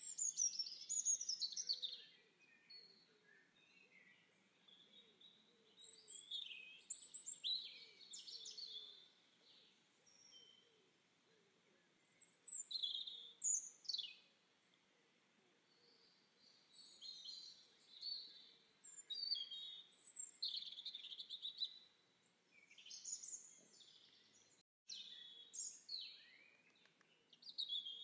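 Small birds singing: bursts of high chirps and quick sliding notes every few seconds, with short pauses between.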